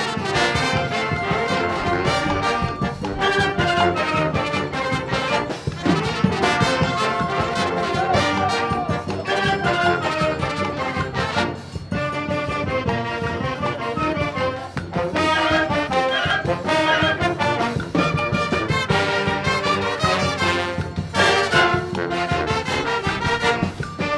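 A brass and wind band playing an arranged forró tune, with trombones and trumpets carrying the melody over a steady beat.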